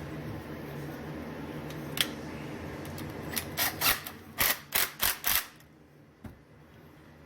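A run of short, sharp metallic clicks and clacks from small tools and parts being handled while the clutch and clutch nut are fitted to an RC nitro engine: one click about two seconds in, then about six in quick succession in the middle.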